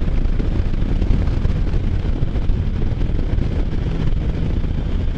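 Wind rushing over the microphone on a moving Can-Am Spyder F3, its three-cylinder engine running steadily underneath at riding speed.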